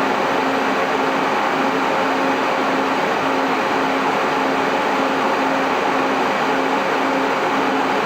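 MJ Research PTC-225 Tetrad thermal cycler running, its cooling fans giving a steady rushing noise with a low hum that pulses on and off about twice a second.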